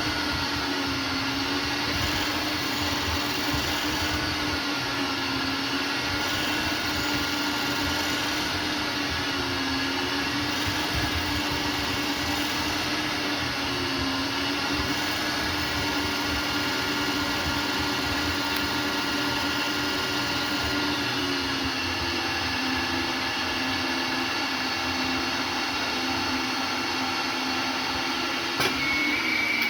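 CNC lathe running, turning a metal part for a 3D-printer hotend: a steady motor hum with a whine over it that shifts slightly partway through. A click and a brief high tone near the end.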